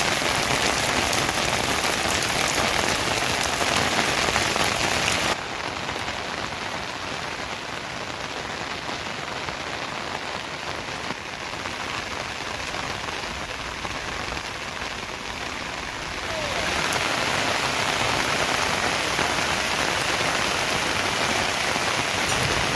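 Steady rain falling as an even hiss. It is louder for the first five seconds, drops abruptly to a quieter, duller patter, and grows louder again about two-thirds of the way through.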